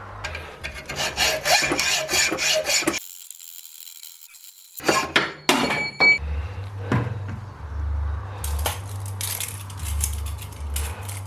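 Workshop handling noises: metal parts clinking and clattering against wood in quick succession, a short lull, then a few knocks. About six seconds in a steady low hum starts, with rubbing or scraping strokes over it.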